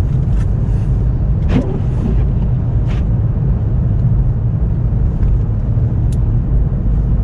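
Steady low rumble of a car being driven, heard from inside the cabin, with a few faint clicks and knocks.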